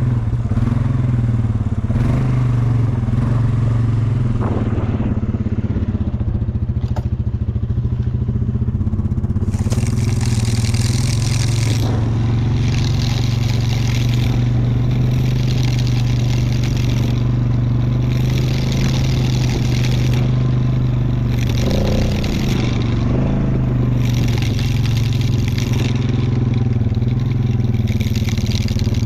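Quad (ATV) engine running steadily under way. From about a third of the way in, repeated bursts of hissing come and go every second or two.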